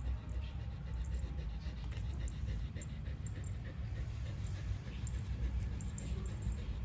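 A dog panting over a steady low rumble, with faint short high squeaks scattered throughout.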